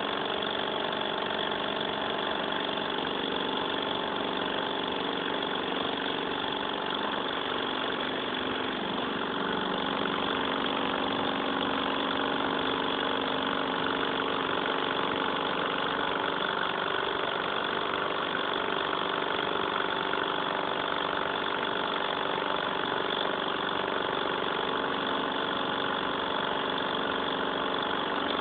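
Small Stirling engine running steadily, its note shifting slightly about a third of the way in.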